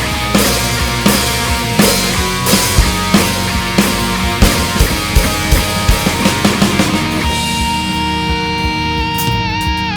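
Live rock band playing an instrumental passage: drums and distorted electric guitar. About seven seconds in, the drums stop and a held guitar note rings on, dipping in pitch again and again.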